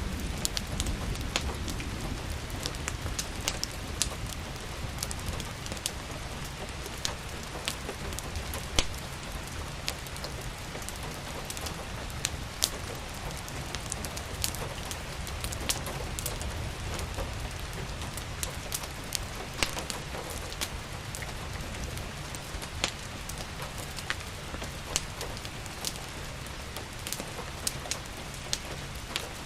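Steady rain falling, an even hiss with a low rumble. Many sharp, irregular crackles and pops from a wood fire burning in a fireplace are spread across it.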